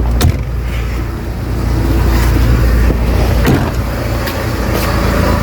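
Mercedes-Benz A160 engine running steadily, with a few short knocks or clicks over it, as the car is taken out to test for a noise in its front end.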